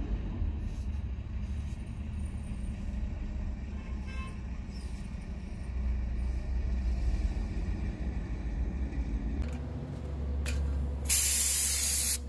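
A vehicle engine rumbles low and steady. Near the end comes a loud hiss of released compressed air lasting about a second, as from an air line at a tyre repair shop.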